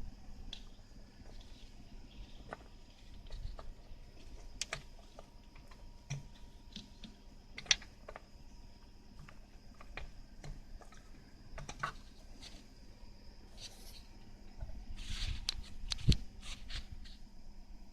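Scattered light clicks and knocks, a few louder ones near the end, over a faint steady hum: small objects being handled during an oil change.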